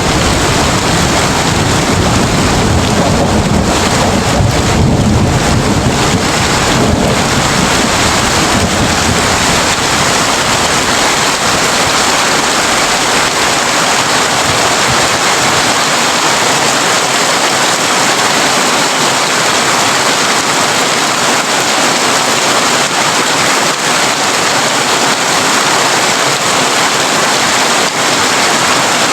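Heavy rain falling on a tin roof, a steady dense patter. A low rumble of thunder under it in the first several seconds dies away.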